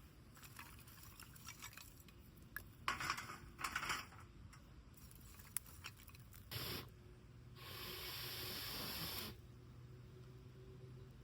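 Ferro rod fire starter struck with a Mora knife: two short rasping scrapes about three seconds in, a brief one later, then a longer steady hiss lasting nearly two seconds.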